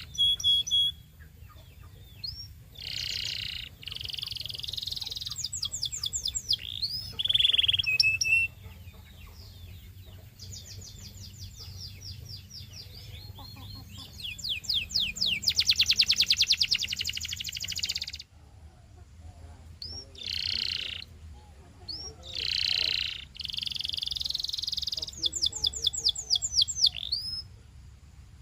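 Domestic canary singing a long song of rapid trills and buzzy rolls between short pauses. The phrase changes every second or two, and the loudest part is a very fast trill in the middle.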